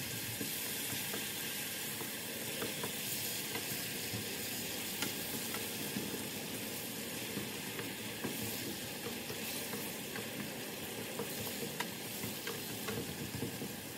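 Chilli sambal frying and sizzling steadily in oil in a stainless steel pan, stirred with a wooden spatula that scrapes and clicks against the pan now and then.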